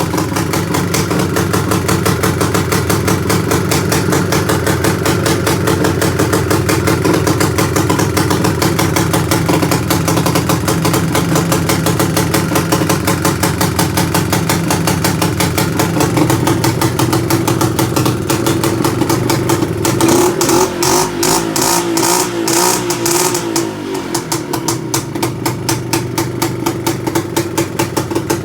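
IZh Planeta 5 motorcycle's single-cylinder two-stroke engine running at a steady idle through its exhaust, with quick regular pulses. About twenty seconds in it is revved up for a few seconds, then drops back to idle.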